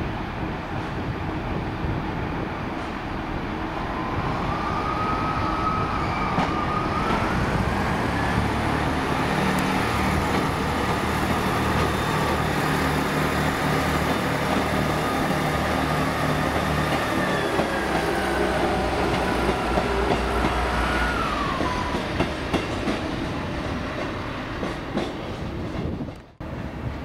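A train moving through the station with a whine that steps up in pitch, holds, then drops back, over a low steady hum. The sound cuts off abruptly about a second before the end.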